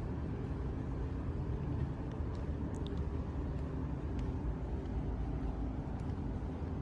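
Steady low rumble of distant city traffic with a faint hum over it, and a few faint high ticks and chirps.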